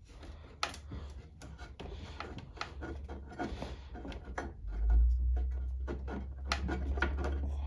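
Irregular small clicks, knocks and rubbing of hands working a fuel hose and its clamp off a lawn mower carburetor. A low rumble swells up about five seconds in and carries on.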